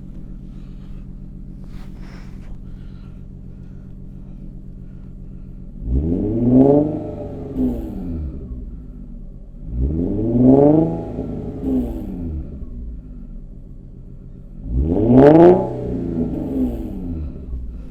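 2011 Infiniti G37S's 3.7-litre V6 through a Motordyne Shockwave exhaust with FastIntentions resonated high-flow cats, idling and then revved three times. Each blip rises and falls back to idle, the third the loudest.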